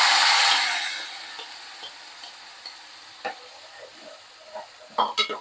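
Marinated prawns sizzling loudly in hot oil as they go into the pan. The sizzle fades within about a second and a half to quieter, steady frying, with a metal clink about three seconds in and a few more clinks near the end.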